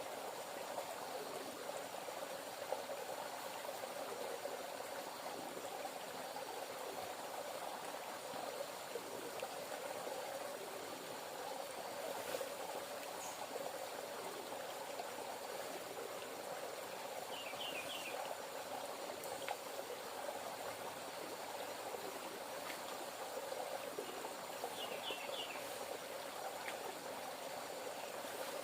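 River water flowing and trickling steadily, with two faint, brief chirps in the middle.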